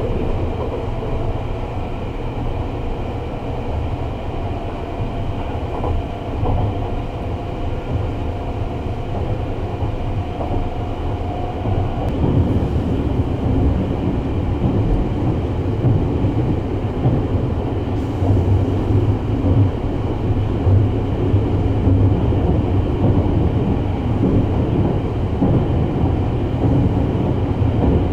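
Running noise of the 285-series Sunrise Express sleeper train, heard from on board: a steady low rumble with a faint whine slowly rising in pitch over the first dozen seconds, the rumble growing louder about twelve seconds in.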